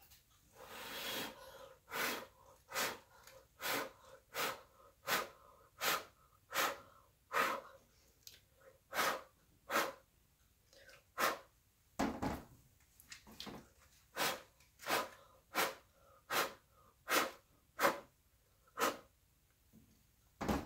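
Repeated short puffs of breath blown by mouth onto wet poured acrylic paint to push its edges out. There are some twenty puffs, roughly one every three-quarters of a second, and the first, about a second in, is longer.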